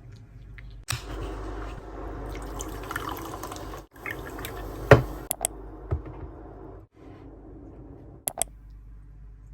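Running water that starts abruptly about a second in and stops near seven seconds, with a few sharp clinks.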